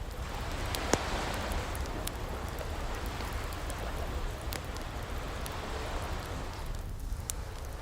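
Ocean waves washing in slow swells over a low rumble, with a wood fire crackling: scattered sharp pops, the loudest about a second in.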